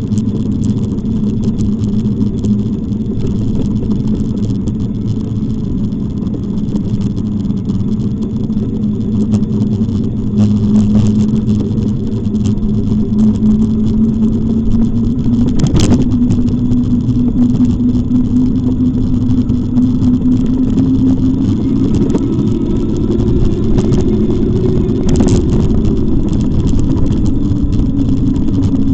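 A motor running steadily, its hum holding one pitch that creeps slowly upward, over a low rumble. There is a sharp click about halfway through and another a few seconds before the end.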